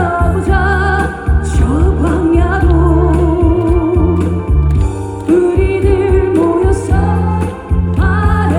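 Live singing of a Korean trot song over a loud amplified backing track with a steady bass beat; the voice holds long notes with vibrato.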